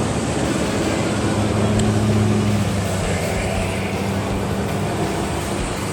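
A car engine running nearby in road traffic: a steady low rumble that swells a little about a second or two in, then settles.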